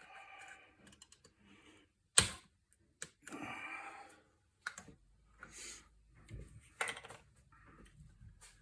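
Scattered clicks and knocks of hands handling parts at a workbench, with one sharp knock about two seconds in and a short scrape about a second later.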